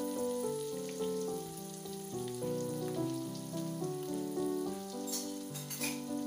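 Instrumental background music, a slow melody of held notes, over the steady sizzle of salted fish and bird's-eye chillies frying in hot oil in a wok, with a little crackling near the end.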